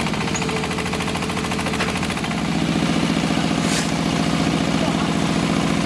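Diesel engine of a QTJ4-40 hydraulic block-making machine running steadily, with an even, rapid beat.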